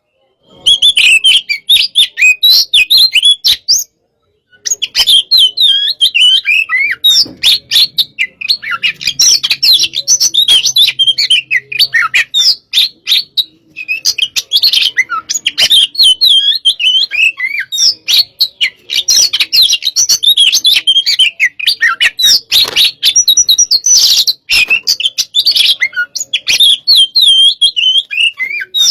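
Oriental magpie-robin (kacer) singing a fast, loud stream of high chirps and warbles, with short pauses about four seconds in and around thirteen seconds. This is the aggressive, fired-up 'hot-type' kacer song.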